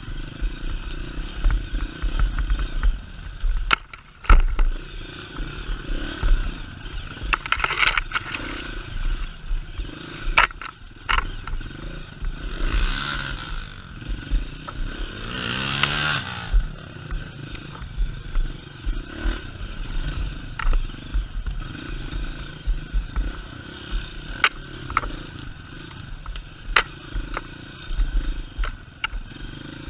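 Vehicle engine running with many short knocks and rattles, and the engine revving up with a rising pitch about halfway through.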